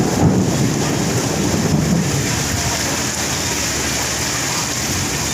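Heavy rain pouring steadily, a dense even hiss, with a brief low rumble in the first two seconds.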